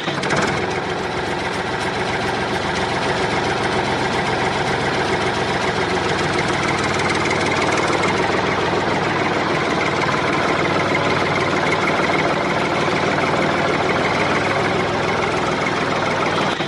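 Small motor of a DIY model tractor running steadily with a dense, even buzz.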